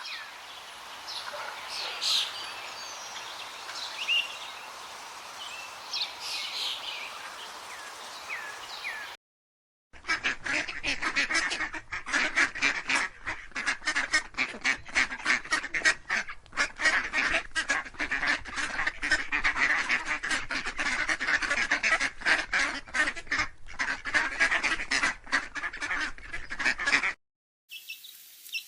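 Scattered bird chirps over a steady background hiss for about nine seconds. After a brief silent cut, a flock of ducks quacks loudly and continuously, dense overlapping calls.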